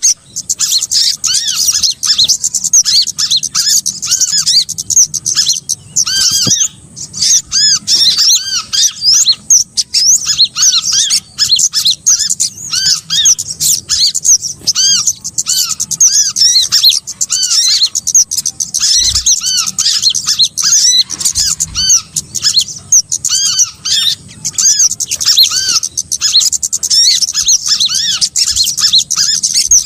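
Bird-trapping lure recording of small birds calling: a dense, unbroken stream of rapid high chirps and squeaky arched notes repeating over and over, used to draw small birds in to be caught.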